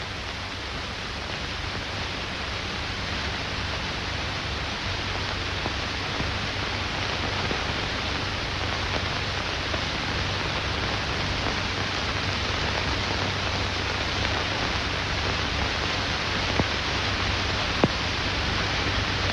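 Steady hiss with a low hum, the surface noise of an old optical film soundtrack, slowly getting a little louder, with a couple of faint ticks near the end.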